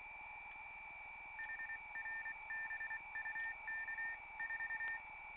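Morse code beeping in the earphone of a one-tube regenerative receiver, a keyed tone starting about a second and a half in, over a steady high whistle and hiss.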